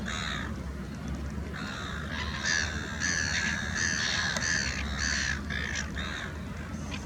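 Many harsh, crow-like bird calls in quick succession, several birds overlapping, over a low steady rumble.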